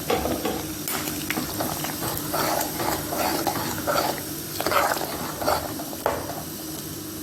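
A pot of vegetables in coconut milk boiling while it is stirred, with irregular short scrapes and knocks of kitchen handling on top.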